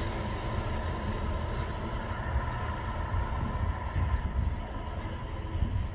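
Coal train's hopper wagons rolling away along the track: a steady low rumble of steel wheels on the rails, with uneven low thumps in the second half.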